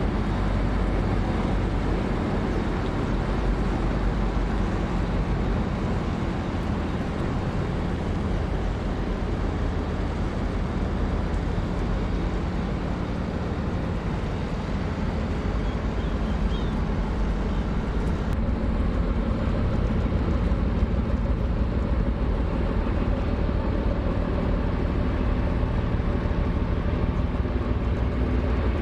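Engine of a river sand barge running with a steady low drone under a hiss, the hiss thinning about eighteen seconds in.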